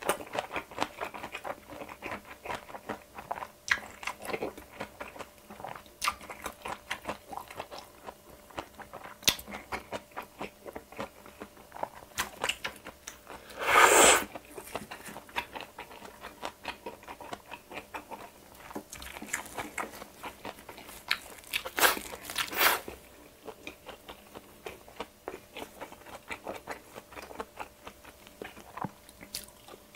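Close-miked chewing and biting: many small wet mouth clicks and soft crunches of bibimbap rice and pan-fried jeon being eaten. A louder short burst of mouth noise comes about halfway through, and another about two-thirds of the way in.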